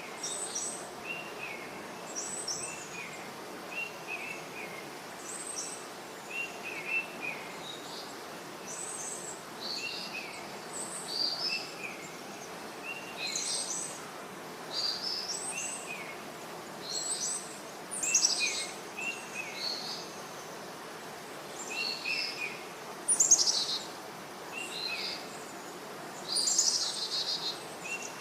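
Several small songbirds chirping: one repeats a short call about once a second while others add higher, sharper chirps and trills, the loudest about 23 seconds in. A steady hiss of outdoor ambience lies underneath.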